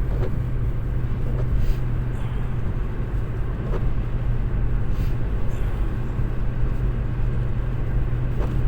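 Steady low drone of road noise inside a moving car: engine and tyres on the road.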